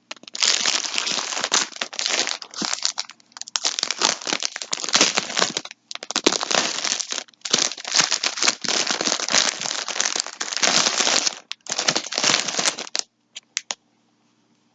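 Packaging crinkling and rustling in bursts as skeins of yarn are handled, stopping suddenly near the end and followed by a few faint clicks.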